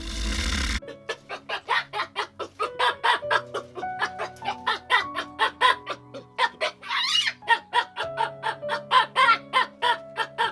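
Chickens clucking in quick, repeated short calls, several a second, with a brief higher call about seven seconds in, over background music.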